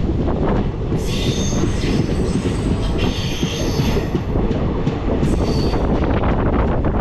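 Train running on the rails with a loud, steady rumble and rattle of wheels and carriages. High-pitched wheel squeal rises over it from about a second in and fades after about three seconds.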